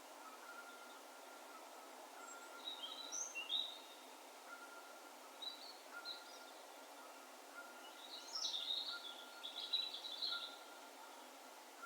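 A small bird singing in short high phrases, a brief burst about two and a half seconds in and a longer, louder one about eight seconds in, over a faint steady background hiss.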